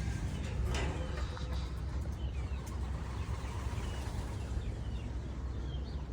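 Faint short bird chirps scattered over a steady low rumble.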